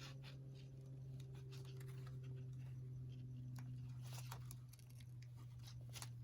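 Small scissors snipping paper, with irregular light clicks and paper rustle as small pieces are cut out, over a steady low hum.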